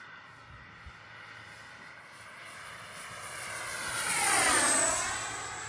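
Twin 64mm electric ducted fans of a Freewing F-14 RC jet whining in a low fly-by. The sound grows louder to a peak about four and a half seconds in, and the pitch drops as the jet passes.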